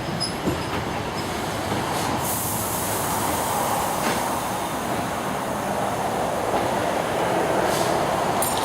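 Passenger train running along the track, heard from inside the carriage: a steady, even noise of wheels on rails.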